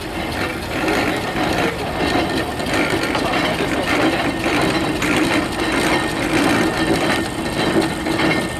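Steam engine working, its exhaust beating in regular chuffs about one and a half times a second over a steady mechanical hum.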